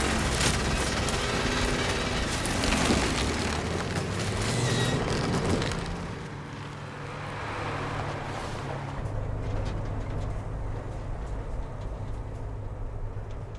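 A film soundtrack's vehicle sound effects. About six seconds of loud, dense noise with a low rumble give way to the steady hum of a truck engine running.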